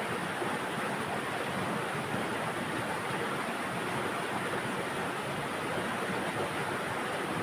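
River water flowing, a steady rushing with no separate splashes or other events.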